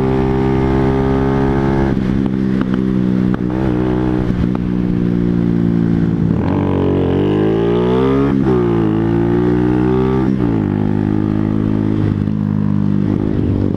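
Small 125cc motorcycle engine heard while riding: it runs steadily at first, then rises in pitch, drops back briefly, rises again and settles to a steady note near the end, as when accelerating up through the gears.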